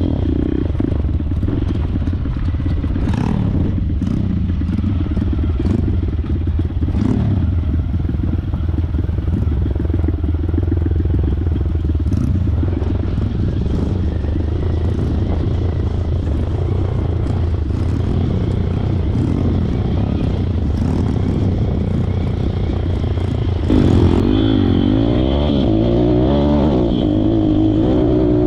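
Pitbike's single-cylinder four-stroke engine running under load while being ridden on a trail, with scattered clattering knocks. About 24 s in, the revs rise and fall repeatedly.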